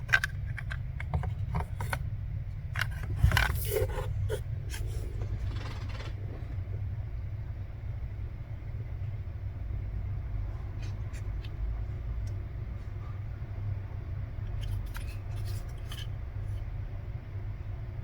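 Scattered light clicks and scrapes from handling a removed plastic A/C blend-door servo motor, busiest in the first six seconds with a few more later, over a steady low hum.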